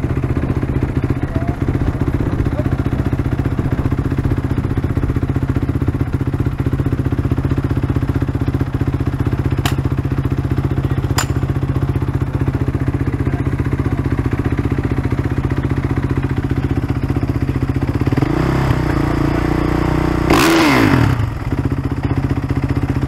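Motocross bike engine idling steadily close by, with a quick throttle blip about twenty seconds in that rises and falls in pitch. Two sharp clicks near the middle.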